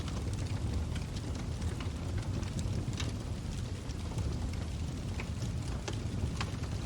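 Log fire burning, with irregular crackles and pops several times a second over a low steady rumble of the flames.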